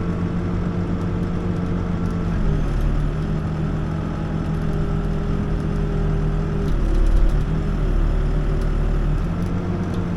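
Backhoe's diesel engine running steadily, heard from the operator's seat; its note drops slightly a couple of seconds in and comes back up near the end as the load changes.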